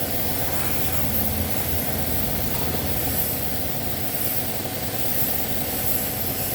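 Compressed-air paint spray gun hissing steadily as it sprays paint, over a steady low mechanical hum.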